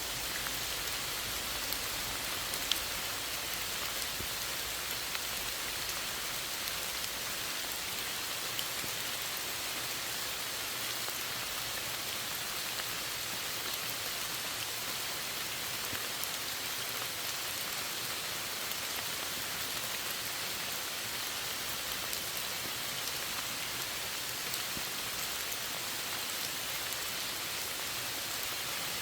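Steady rain falling, an even hiss with now and then a single louder drop tick.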